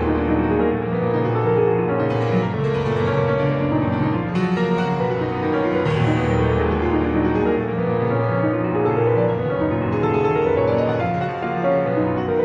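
Solo piano playing a dramatic, tense composition: held low bass notes under repeated climbing runs of notes in the middle register, at an even, full loudness.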